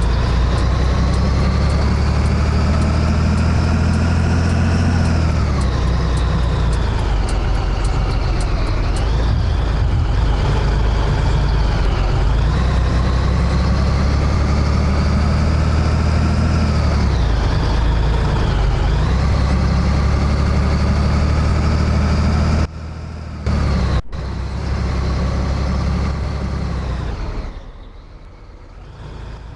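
Scania 113H truck's diesel engine running under way, its pitch climbing and falling back several times as engine speed changes. About 23 seconds in the sound drops suddenly, with a short click, and near the end it falls quieter.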